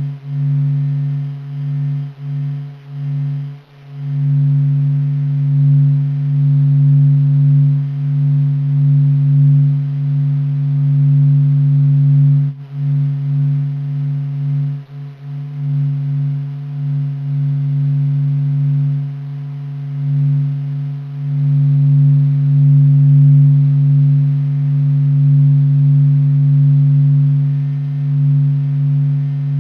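NASA's sonification of the Sun's vibrations: a continuous deep drone built from steady low tones with fainter higher tones above, its loudness wavering with a few brief dips.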